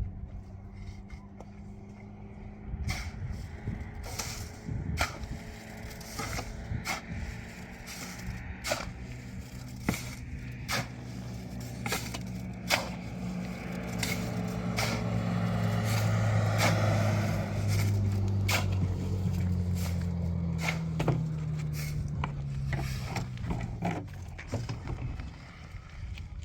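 A motor vehicle's engine coming closer, loudest about two-thirds of the way through, then fading as its pitch drops. Sharp knocks and clicks sound on and off throughout.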